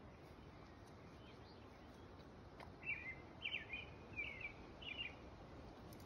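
A small bird calling faintly: four short chirps about half a second apart, starting about halfway through, over a low steady background hiss.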